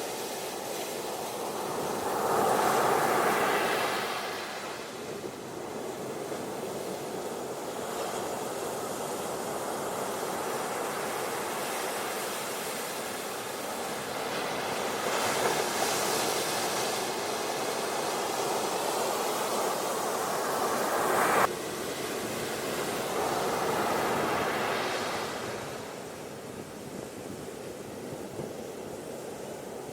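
Ocean surf washing onto a beach: a steady rush of water that swells louder three times as waves come in, the middle swell cutting off suddenly.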